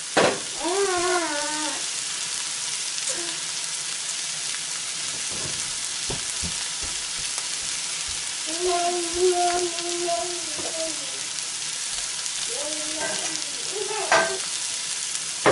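Onions, peppers and mushrooms sautéing in oil over high heat: a steady frying sizzle. A few brief pitched calls sound over it about a second in, in the middle and near the end.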